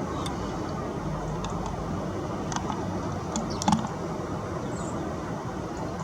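Steady background rumble and hiss with scattered light clicks. A short, louder knock comes a little past halfway.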